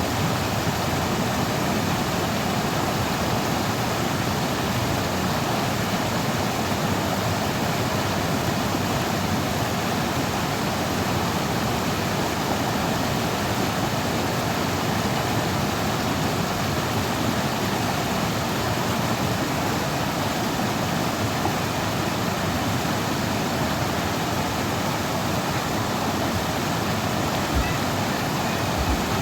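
River water running steadily over a rocky bed, an even rushing with no pauses. One or two brief low bumps come near the end.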